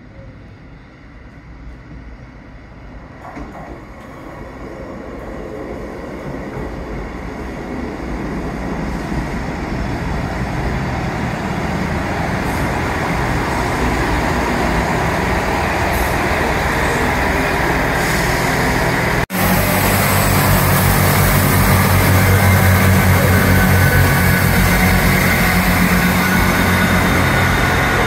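Northern diesel multiple-unit train pulling into the platform, its rumble growing steadily louder as it approaches and draws alongside. After a brief break, the diesel engines run loudly nearby with a low throb.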